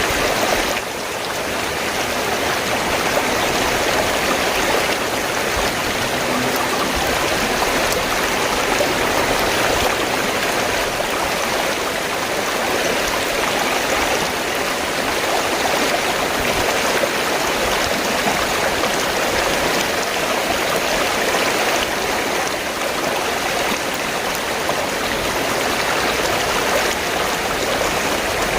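Steady rush of flowing river water, with a brief dip in level about a second in.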